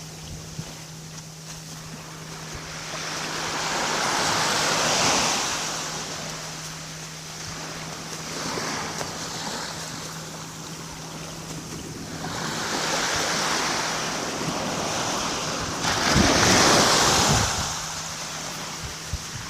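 Calm sea: small waves washing gently onto the shore, four swells of surf a few seconds apart with quieter lulls between. The last, about three-quarters of the way in, comes on suddenly and is the loudest. A faint steady low hum sits underneath.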